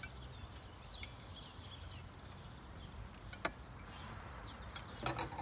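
Small birds chirping over and over in short falling calls, over a steady low outdoor rumble, with a single sharp click about three and a half seconds in.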